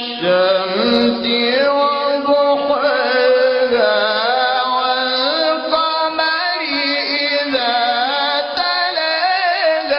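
Qur'an recitation: a single voice chanting in melodic tajweed style, with long held notes and wavering, ornamented pitch.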